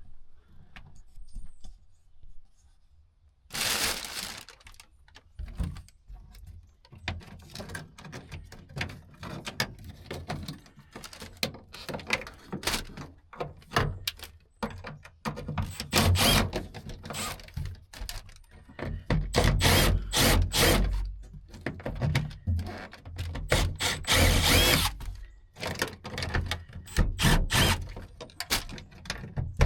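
Hand tools and loose parts knocking and clicking irregularly, with several longer scraping or whirring bursts, as a Mk1 VW Rabbit's tail light assembly is unbolted and pulled off.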